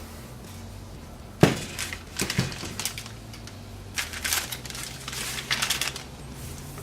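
Computer case parts being handled during reassembly: a sharp knock about a second and a half in, a couple of lighter clicks, then scraping and rustling, over a steady low hum.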